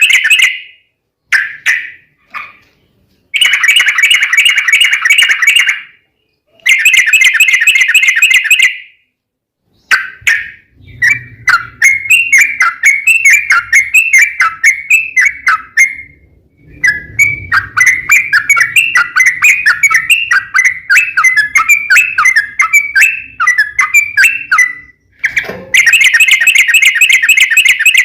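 Yellow-vented bulbul (trucuk) song played as a lure recording: several bursts of long, rapid rolling trills that start and stop abruptly, and in the middle a long run of quick, chattering chirps.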